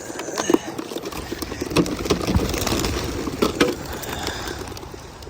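Racing pigeons flapping out of an opened transport crate to take flight: a rapid, irregular clatter of wingbeats that dies away near the end.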